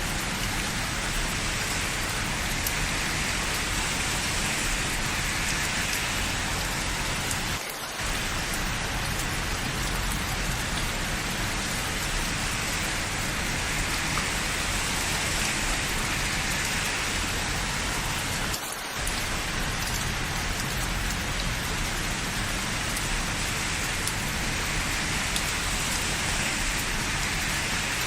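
Steady rain falling, an even hiss of drops on hard surfaces, that dips briefly twice, about 8 and 19 seconds in.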